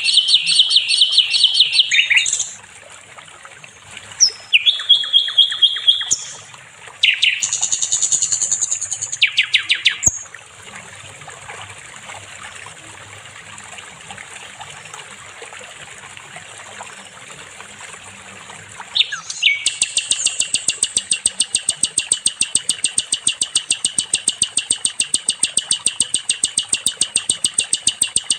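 Sikatan londo flycatcher singing: bursts of rapid high chirping and trilled phrases, then a pause with only a faint steady hiss, then a long, fast run of evenly repeated high notes starting about two-thirds of the way in.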